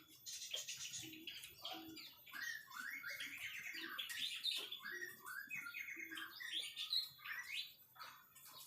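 White-rumped shama singing: a rapid, varied run of chirps, whistles and gliding notes.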